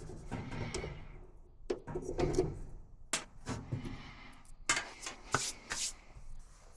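Hands working on a disassembled clothes dryer: irregular scraping and rubbing with a string of sharp clicks and knocks, the loudest cluster about five seconds in.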